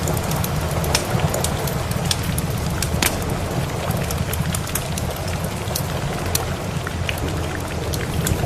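Steady rain falling, mixed with a wood fire crackling: scattered sharp pops over a constant hiss and a low rumble.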